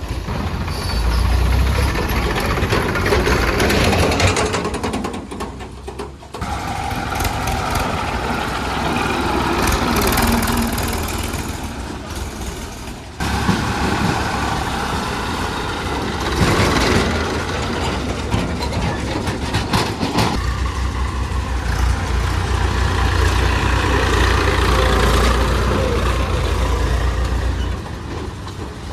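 Heavy machinery engines running steadily under load, with the sound changing abruptly a few times.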